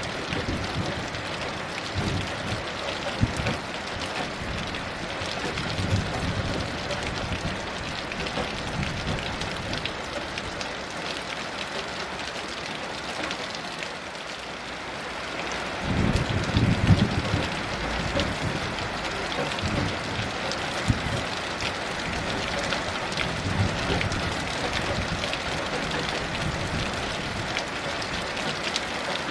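Heavy rain falling steadily, with low rumbles of distant thunder that swell a few times. The strongest rumble comes a little past halfway.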